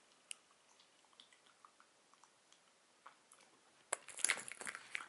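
Faint chewing of a gummy licorice-type sweet, with small wet mouth clicks. About four seconds in comes a short flurry of clicks and rustling as the hollow plastic capsule halves are picked up off the table.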